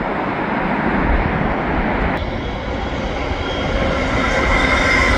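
Jet airliner on final approach, a steady rushing engine noise that grows slightly louder, with a high whine coming in about halfway through.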